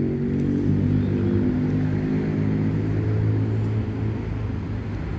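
Steady low mechanical hum made of several held low tones, like an engine running, with a faint thin high whine coming in about two seconds in.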